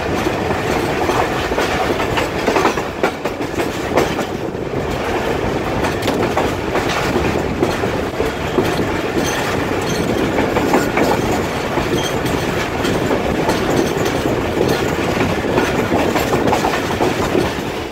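Passenger train hauled by a ZCU diesel locomotive running at speed, heard from beside the train: a steady rushing rumble with irregular clicks and clatter of the wheels over the rail joints.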